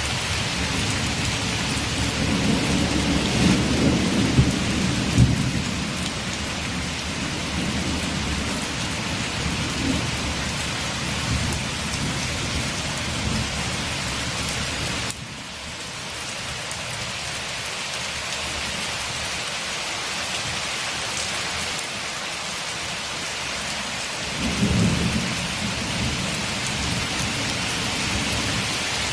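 Steady rain on a window, with thunder rumbling low twice: a long roll a few seconds in and a shorter one near the end. The rain drops suddenly in level about halfway through, then carries on.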